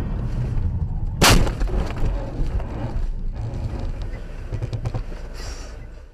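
A vehicle collision: one sudden loud bang a little over a second in, over a steady low rumble of engine and road noise.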